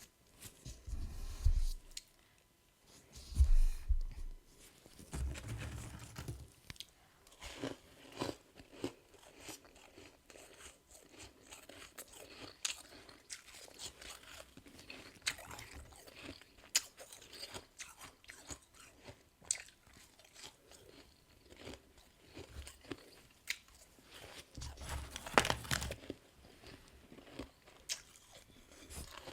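A person biting and chewing soft freezer frost, many crisp crunches in the mouth. The heaviest bites, with a dull thump, come in the first few seconds and again near the end.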